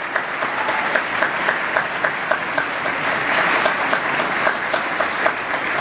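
Audience applauding: a dense, steady patter of many hands clapping, with a few sharper claps standing out.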